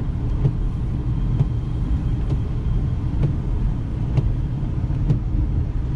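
Road noise inside a moving car's cabin: the steady low rumble of the car driving, with a light tick about once a second.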